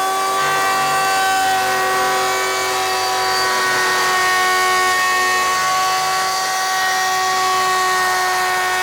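Router in a router table running at full speed, a steady high-pitched motor whine, while a flush-trim bit cuts along the board's edge.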